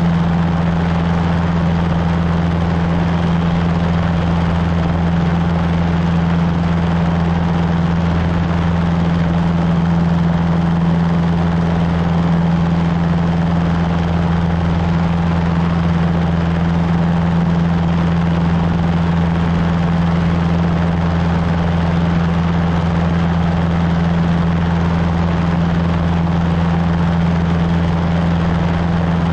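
Cessna 150's four-cylinder Continental O-200 engine and two-blade propeller droning steadily, with a deep, unchanging hum.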